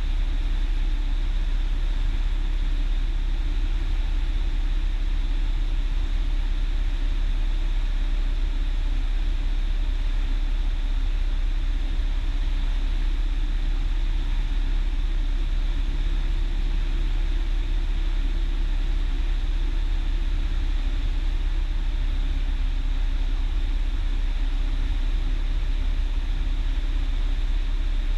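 Steady drone of a Cessna 172's piston engine and propeller heard inside the cockpit during the descent on approach, holding an even note throughout.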